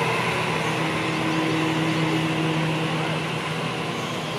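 Sydney Trains double-deck electric train rolling slowly past along the platform as it slows to a stop: steady wheel and running noise with a low hum from its drive, getting gradually quieter.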